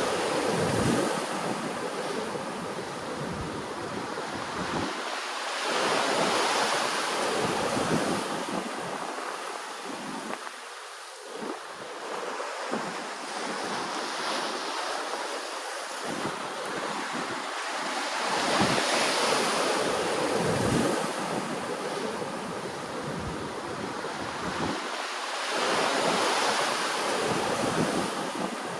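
Ocean waves washing ashore, the surf swelling and easing every several seconds, with wind buffeting the microphone.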